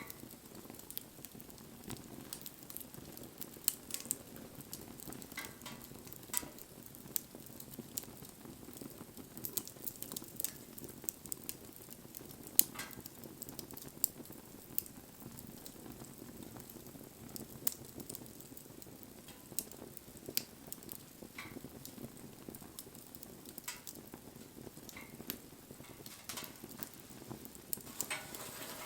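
Wood bonfire burning: a steady low rush of flame with irregular crackles and sharp pops from the burning wood, one pop standing out about halfway through.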